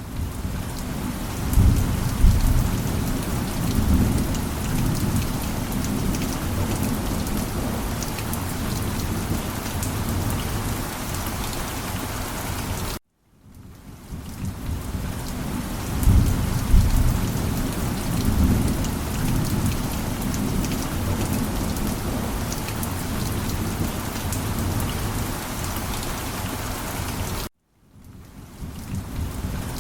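Steady rain with low rolling thunder that swells twice, about two seconds in and again past the middle. The looped recording cuts out to silence for a moment about halfway and again near the end, then fades back in.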